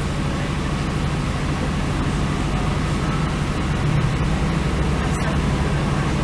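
Northern Ireland Railways diesel train running, heard from inside the carriage: a steady low rumble and hum that swells slightly about four seconds in.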